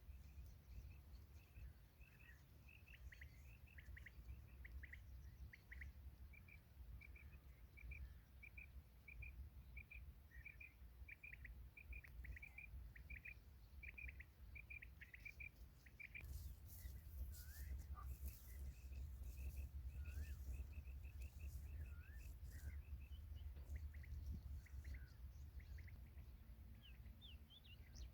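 Faint bird calls: a long run of short, repeated chirps, joined about halfway through by a few sharp clicks and short sliding chirps, over a steady low rumble like wind on the microphone.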